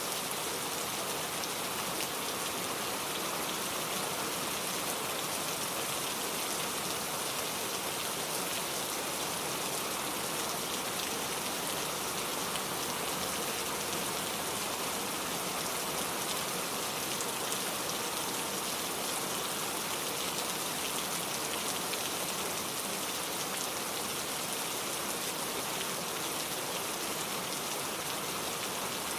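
Steady rainfall: an even hiss of many drops falling on a surface, unchanging throughout.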